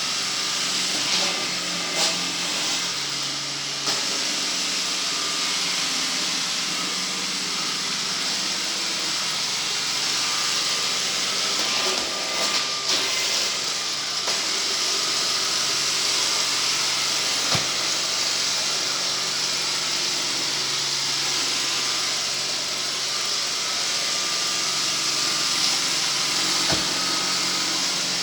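Motorised sweeping machine running steadily, a constant hiss over a low hum, with a few short knocks.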